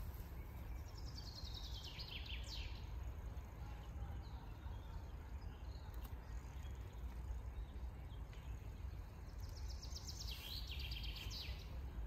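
A songbird sings a falling series of quick notes twice, once near the start and again near the end, each phrase about two seconds long, over a steady low background rumble.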